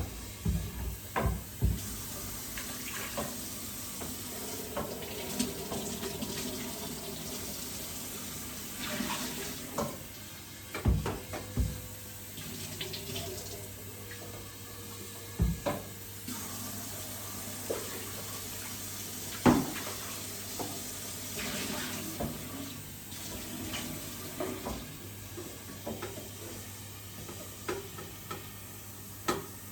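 Tap water running into a sink, with scattered sharp knocks and clatter from items being handled and washed.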